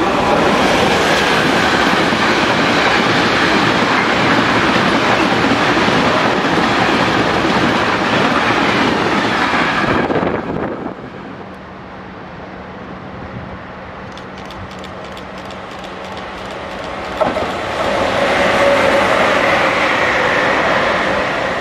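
Freight train of tank wagons passing close by, a loud steady rumble of wheels on rails that falls away sharply about ten seconds in as the last wagon goes by. Near the end another train's sound grows louder as it approaches.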